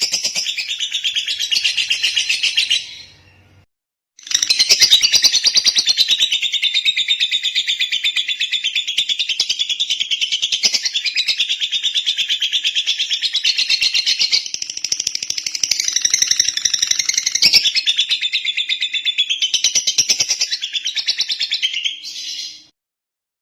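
Lovebird chattering in a long, rapid, unbroken trill of high chirps. It breaks off about three seconds in, resumes a second later and runs on until it stops shortly before the end.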